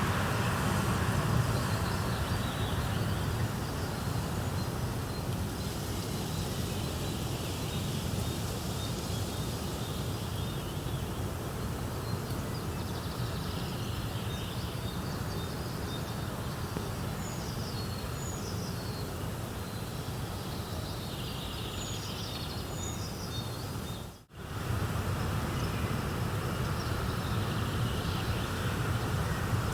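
Nature ambience: a steady rushing noise with small birds chirping now and then. The sound cuts out briefly about 24 seconds in.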